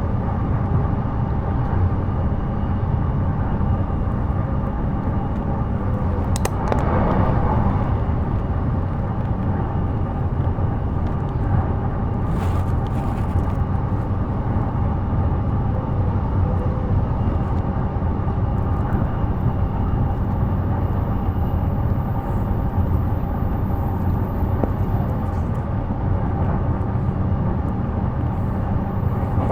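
Inside a JR East E233 series electric train running at speed: a steady rumble of wheels on rail with a constant hum. There is a sharp clack about six seconds in and another brief one near the middle.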